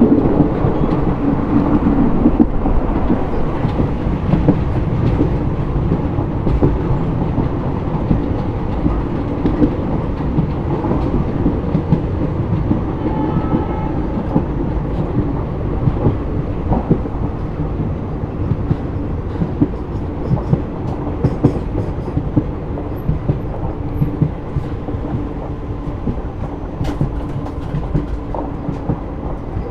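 Passenger express train running along the track, heard from on board: a steady loud rumble of wheels on rails with irregular clacks over the rail joints.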